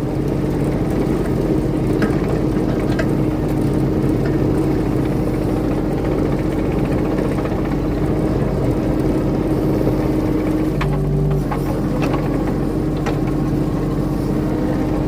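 Diesel engine of a compact earthmoving machine running steadily under load while it grades mud, with a few faint clanks.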